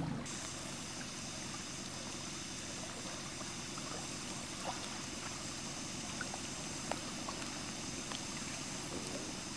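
Steady river-shore ambience: a constant even wash of water noise, with a few faint clicks.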